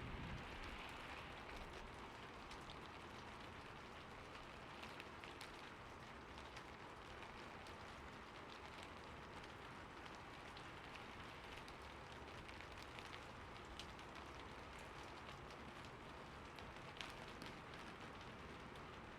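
Faint, steady rain falling, with scattered sharper drop impacts standing out from the hiss.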